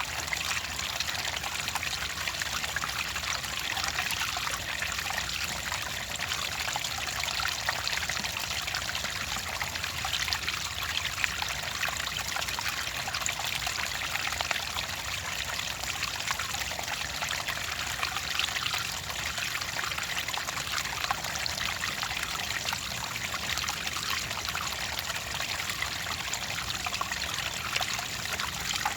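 Clear running water trickling and splashing steadily, with no pauses or changes.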